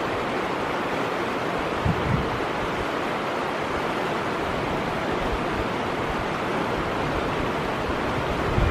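Steady rush of a fast-flowing mountain stream, with a brief low buffet of wind on the microphone about two seconds in.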